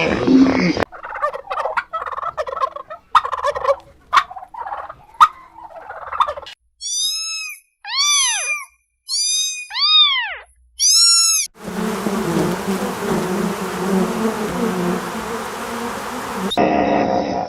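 Animal sounds: a few seconds of quick clicks and chatter, then about six short calls, each rising and then falling in pitch, followed by a steady noisy stretch.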